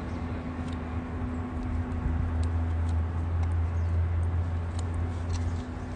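Wood campfire crackling, with sparse sharp pops and ticks over a steady low rumble.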